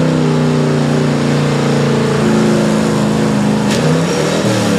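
Pulling truck's engine running hard at high, fairly steady revs under load; the pitch shifts about two seconds in and the revs drop away near the end.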